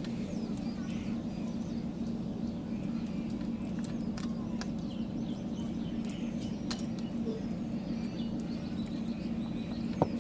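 Eating sounds from a meal eaten by hand: scattered soft clicks and smacks over a steady low hum, with faint bird chirps.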